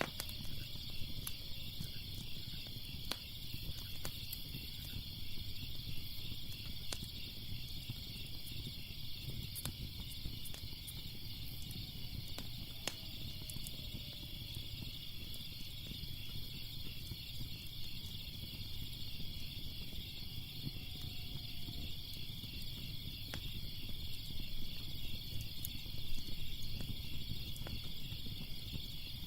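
Crackling fire with scattered sharp pops and snaps over a low rumble, mixed with a steady pulsing chorus of chirping crickets.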